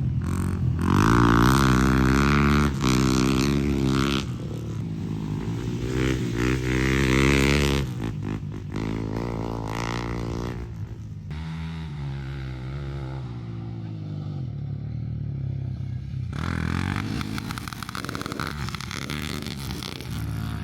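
Enduro motorcycle engine running and revving, its pitch rising and falling with the throttle. It is loudest for the first eight seconds or so, then steadier and quieter.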